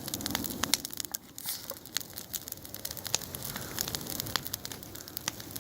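Bonfire crackling, with irregular sharp pops and crackles.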